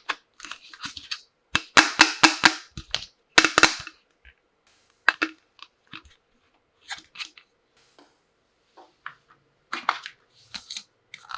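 Clicks and clatters of toy tea-set pieces being handled: dense runs of sharp clicks about two and three and a half seconds in, then scattered single clicks.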